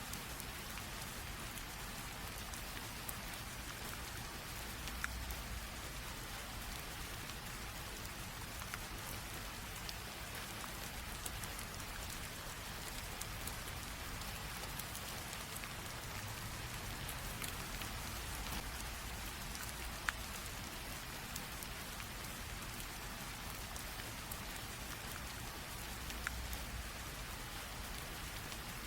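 Light rain drizzle falling steadily: an even soft hiss with scattered individual drops ticking.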